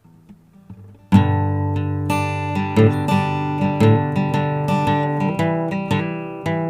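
Acoustic guitar intro to a blues song. It starts about a second in with a loud struck chord, then goes on with strummed chords and ringing notes.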